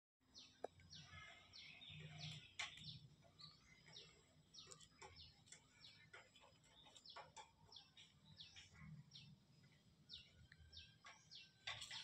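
Faint birdsong: many short, high chirps, each sliding quickly downward, repeated over and over, with a few sharp clicks among them.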